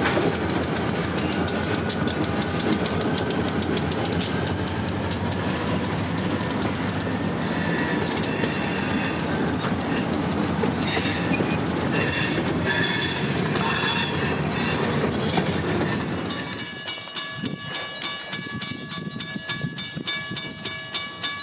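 Freight train of boxcars rolling past: a steady rumble and clatter of wheels on rail, with wheel squeal around the middle. About sixteen seconds in, the train noise falls away, leaving a regularly repeating metallic ringing.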